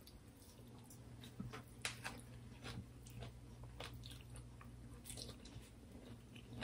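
Faint chewing and mouth sounds of people eating a meal by hand, with a few small crunches and clicks spread through, over a faint steady hum.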